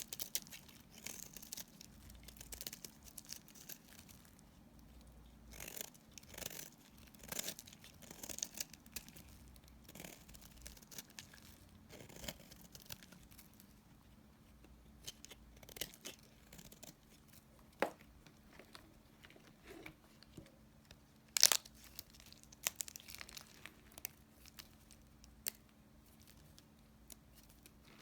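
Remnants of bar soap being cut, with irregular dry crackling and crunching strokes and one sharp snap about two-thirds of the way through.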